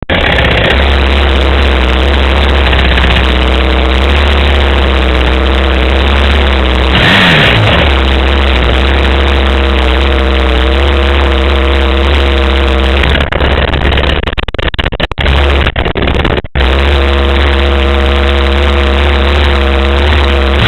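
Dirt bike engine running loudly and close, its pitch wavering up and down with the throttle. For a few seconds near the end the sound turns choppy and broken.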